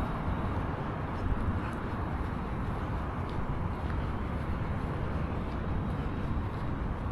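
Steady outdoor background noise of road traffic: a continuous low rumble with no distinct events.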